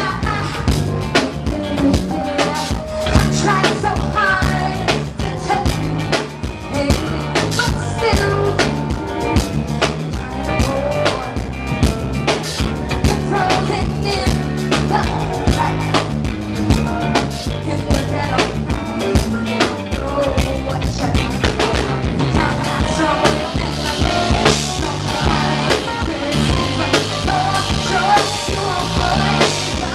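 Live band playing a rock song, with a drum kit keeping a steady beat under bass and other instruments.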